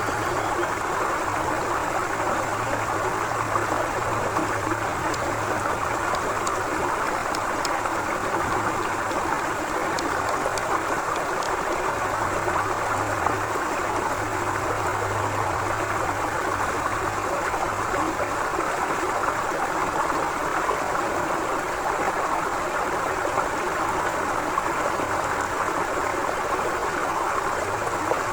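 Forest river flowing steadily, an even rushing of water with no let-up.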